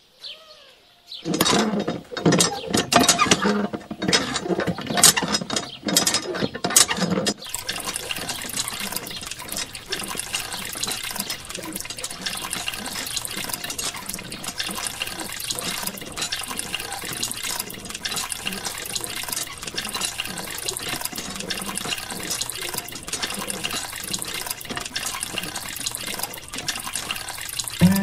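Water from a miniature hand pump pouring along a small stick channel into a cup and a basin. It starts about a second in with uneven gushes and splashes, then settles into a steady trickle from about seven seconds in.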